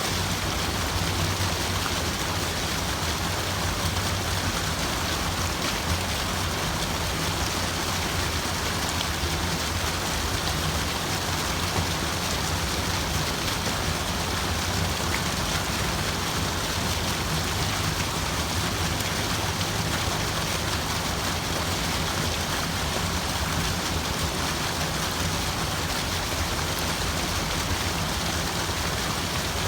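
Water running steadily, a continuous even rush with no breaks or changes.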